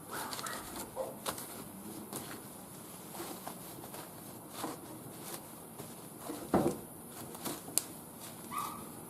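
Wood fire crackling in a barbecue grill: scattered sharp pops and clicks, the loudest about six and a half seconds in, with a brief high call near the end.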